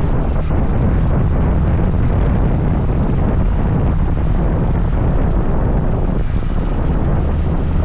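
Steady wind rush on the microphone over the low drone of a scooter being ridden along.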